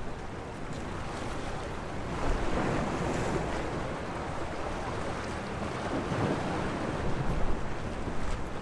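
Sea waves washing onto the shore, swelling twice, about two and a half and six seconds in, with wind buffeting the microphone underneath.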